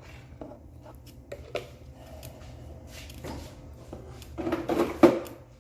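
Light clicks and knocks of kitchen things being handled on a counter, with a louder, longer clatter about four and a half seconds in.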